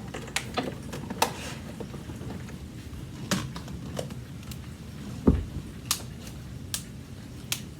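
Scattered clicks and knocks from a Hoover vacuum cleaner's hose being fitted into the machine, with one heavier thump about five seconds in.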